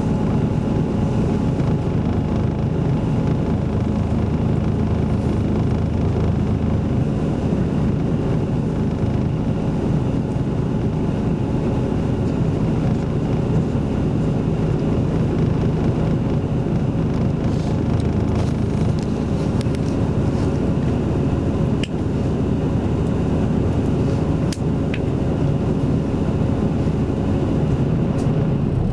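Isuzu Erga Mio city bus with Aisin automatic transmission running, heard from inside the cabin: a steady engine and road rumble. A couple of faint clicks come about three-quarters of the way through.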